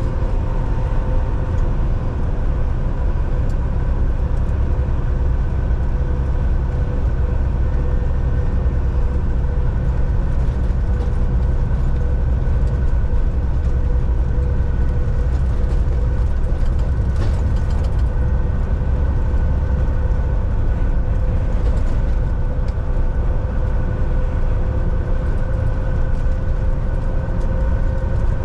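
Volvo VNL 760 semi truck cruising at highway speed, heard from inside the cab: a steady low rumble of engine and road with a faint steady whine above it.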